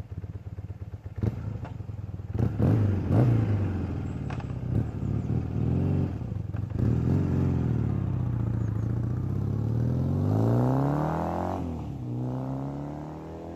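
BMW R80 air-cooled flat-twin boxer engine through a Hattech Cannonball exhaust, idling and then revved in several short blips. Near the end it gives one long rev that rises steadily, cuts off sharply and settles back toward idle.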